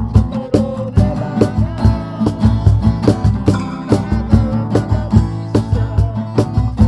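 Music with a guitar strummed in a steady rhythm, about two strums a second, over a low bass.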